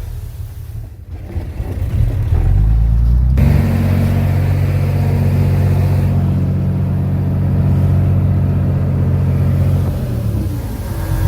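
Heavy diesel engine of earthmoving machinery running steadily under load. The note changes abruptly to a louder, steadier drone about a third of the way in, and the engine speed drops near the end.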